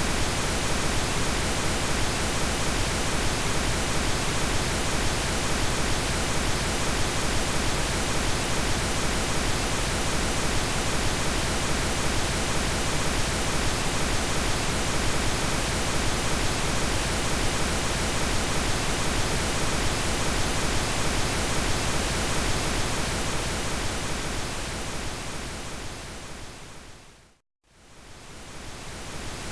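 Steady synthetic pink noise, an even hiss across the whole range. Near the end it fades out to a moment of silence and fades back in.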